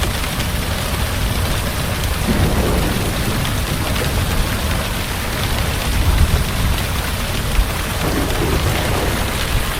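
Heavy rain falling steadily, with low rumbles of thunder swelling and fading beneath it a few times.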